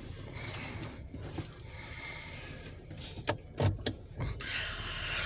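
Car cabin noise: a steady low engine and road rumble, with a few sharp clicks and knocks a little past halfway and a rise of hiss near the end.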